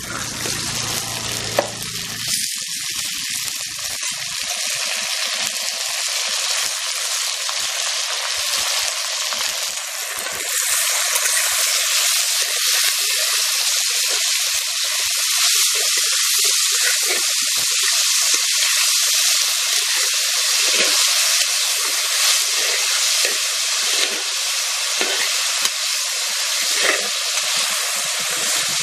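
Cut veldt grape (pirandai) stems frying in hot oil in a clay pot with shallots, red chillies and dal, sizzling steadily as a flat spatula stirs and scrapes them. The sizzle grows louder about ten seconds in.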